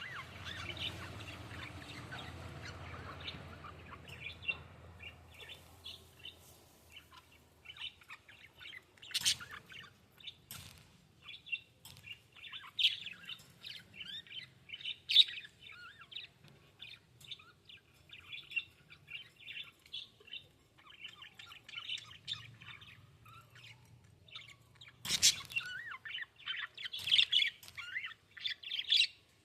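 Budgerigars chirping and chattering in a quick, continuous string of short high chirps. A noisy rush underlies the first few seconds, and a brief loud rustle comes near the end.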